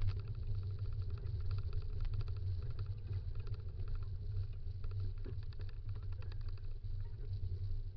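Dog scooter rolling along a dirt trail: a steady low rumble with quick rattling clicks over it.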